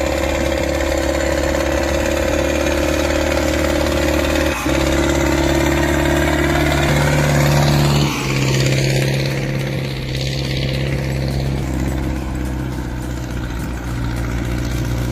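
Tractor engine running steadily under load. Its pitch and tone change abruptly twice, about four and a half and eight seconds in.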